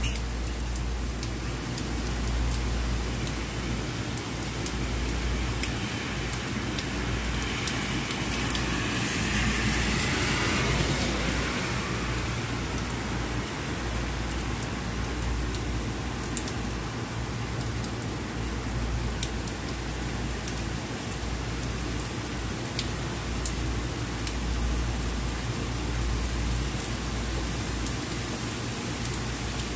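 Steady rain falling on a wet city street over a low steady rumble. A vehicle passes on the wet road about eight to twelve seconds in, its hiss swelling and then fading.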